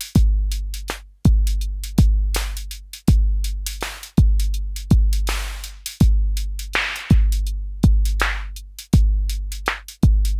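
Arturia DrumBrute Impact analog drum machine playing a beat. A deep kick drum, each hit with a long, low tail, sounds roughly once a second, over quick hi-hat ticks and noisy snare hits.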